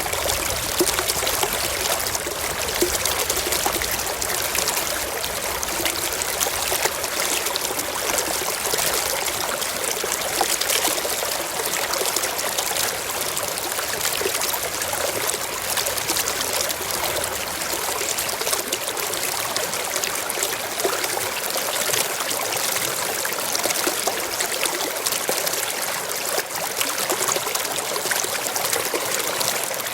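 Forest stream flowing over rocks, a steady rush of water with many small splashes and trickles.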